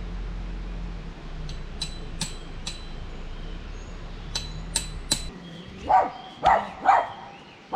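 Several light, ringing clinks, then a dog barking three times in quick succession near the end, the barks the loudest sounds.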